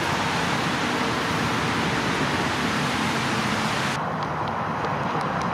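Steady rain falling, a dense even hiss. About four seconds in, at a cut, the hiss thins to a lower rush with scattered small ticks of single drops.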